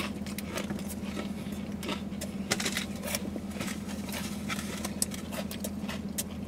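Close-up eating of a bagel sandwich stuffed with cream cheese and crunchy corn snacks: a bite, then chewing heard as a scatter of small crunches and clicks. Under it runs a steady low hum inside the car.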